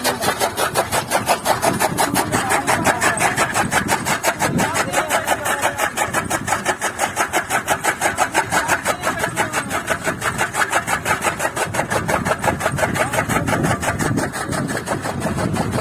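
Tractor-driven chaff cutter (toka machine) running, the Massey Ferguson 240 tractor's diesel engine pulling steadily under a rhythmic chopping pulse about five times a second as fodder is cut.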